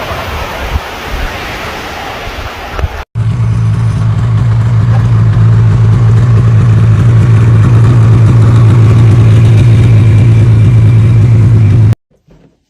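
A rushing hiss of noise, then after a sudden cut a loud, steady low drone like a motor running, which cuts off abruptly near the end.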